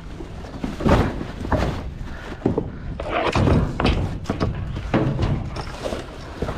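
Irregular thuds, knocks and clatter of scrap and debris being handled and tossed about in a dumpster.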